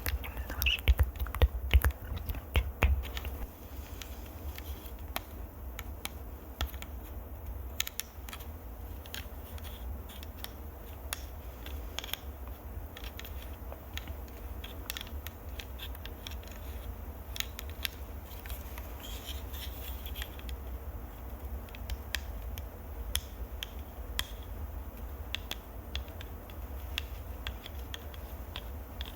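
Fingers scratching and tapping directly on a microphone for ASMR. There is a steady low rumble and many scattered sharp clicks, loudest in the first few seconds.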